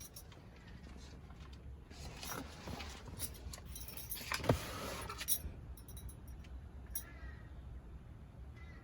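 Faint outdoor background rumble with scattered light clicks and rattles, and one sharper knock about halfway through.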